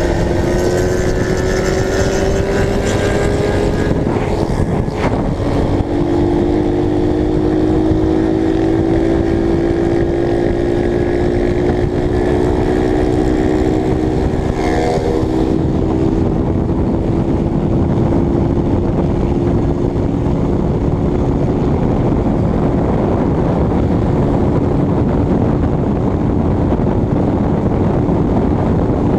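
Honda CBX 250 Twister single-cylinder engine running at a steady cruise, with heavy wind rush on the microphone. The engine note shifts about five seconds in, then drifts slowly.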